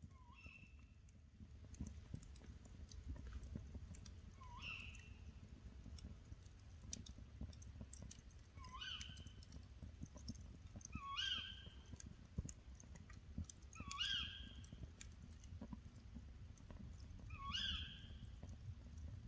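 An animal's short call that rises in pitch, given six times a few seconds apart, over a low rumble and scattered faint crackling clicks.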